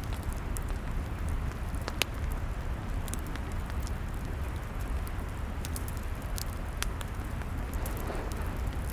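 Log fire crackling: scattered sharp pops and snaps over a steady low rumble, with one louder pop about two seconds in.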